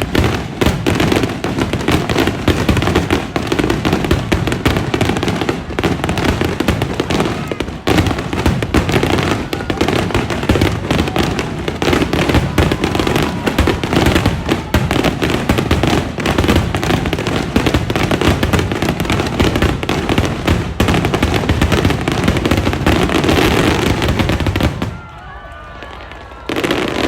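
A rapid, continuous barrage of fireworks bursting, with dense overlapping booms and crackle. It stops suddenly near the end and starts again a moment later.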